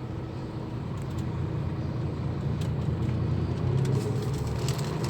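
Scania K340 bus engine running with a low, steady drone that grows gradually louder.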